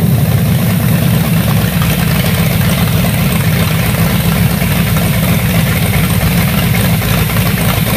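Ford 351 Cleveland V8 on a Holley Pro-Jection throttle-body fuel injection system idling steadily through open headers.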